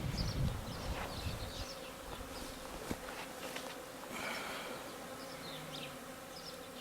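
Honeybees from a newly installed package buzzing around the open hive in a steady hum, with a low rumble in the first second or so.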